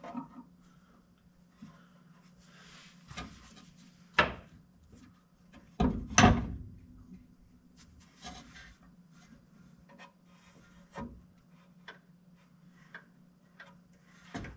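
Hand tools and metal parts clinking and knocking as wrenches work a bolt on a Vanagon's shift linkage, with two louder knocks around four and six seconds in, over a faint steady hum.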